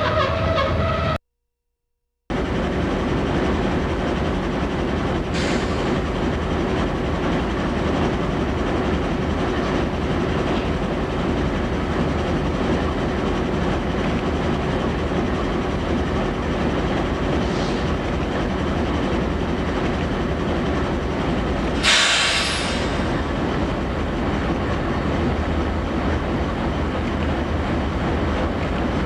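Diesel-hauled freight train running, a steady rumble of locomotive engines and rolling wheels. About two-thirds of the way through there is one sharp hiss or squeal lasting about a second.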